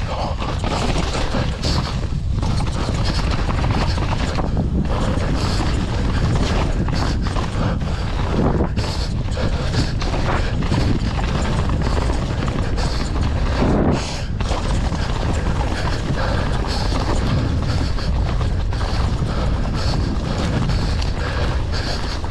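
Downhill mountain bike descending a rough, wet trail: a continuous clatter and rattle of chain, frame and tyres over roots and rocks, with wind rushing over the microphone.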